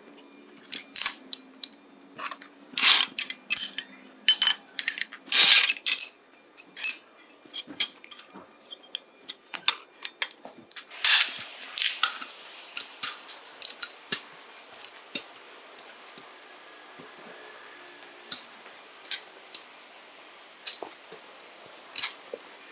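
Small metal parts and tools clinking and tapping against each other as they are handled. The sharp clinks come irregularly, often several a second, and thin out to occasional taps in the second half.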